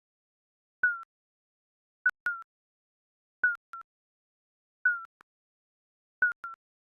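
Countdown timer's electronic ticking sound effect: short, high blips that drop slightly in pitch, each starting with a click, repeating about every second and a half, often as a quick double tick.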